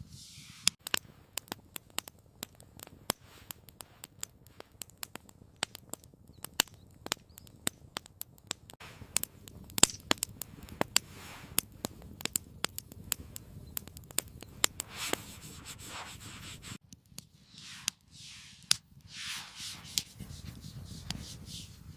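Wood campfire crackling, with irregular sharp pops and snaps of varying loudness, several a second. After about seventeen seconds the pops thin out and a few swelling rustling hisses come and go.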